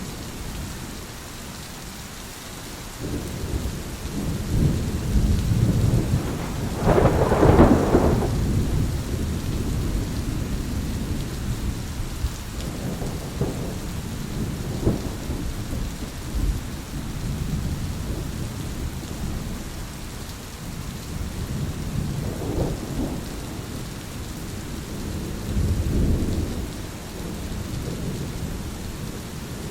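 Steady rain falling through a thunderstorm, with rolling thunder: rumbles build from about three seconds in to the loudest peal around seven to eight seconds, then further rolls follow at intervals, one more strong one near the end.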